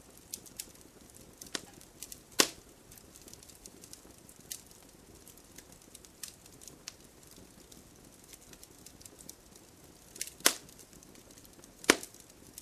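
Wood fire crackling: scattered small pops and ticks over a low hiss, with three louder sharp snaps, about two seconds in, near the end, and just before the end.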